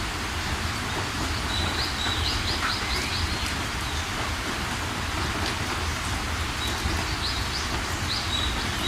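Steady rain with a low rumble underneath, and a songbird giving a quick run of high chirps twice, once about two seconds in and again near the end.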